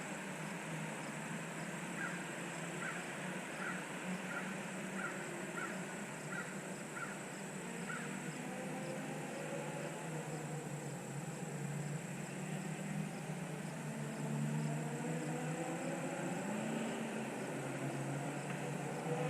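Race car engines running at a distance, a steady hum, with engine notes rising in pitch over the last few seconds as cars accelerate. A run of short high chirps, about two a second, sounds between about two and eight seconds in.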